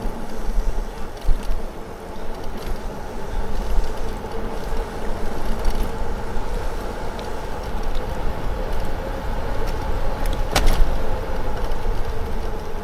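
Lectric XP4 e-bike being ridden: wind rushing on the microphone and tyres rolling on the path, over a steady hum from the hub motor. A single sharp click about ten and a half seconds in.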